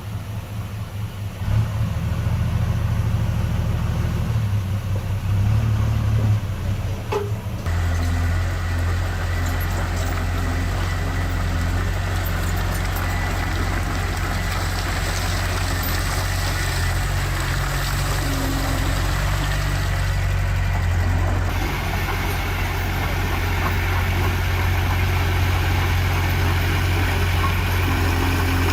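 Heavy diesel engine of earthmoving machinery running steadily. The sound changes abruptly about seven seconds in and again about twenty-one seconds in.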